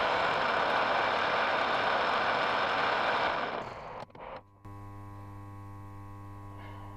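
Metal lathe running with a loud, even machining noise that fades out and stops about three and a half seconds in. After a brief lull, a steady electrical hum takes over.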